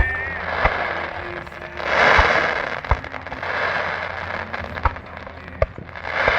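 Fireworks going off: a run of sharp bangs at irregular intervals, with a rush of hissing noise about two seconds in and another near the end.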